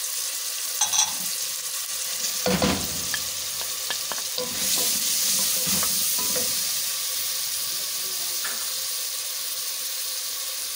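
Tomatoes and spices sizzling in hot oil in a pressure cooker while a wooden spoon stirs them, scraping and knocking against the pot. The loudest knock comes about two and a half seconds in, and the sizzle grows louder around five seconds in.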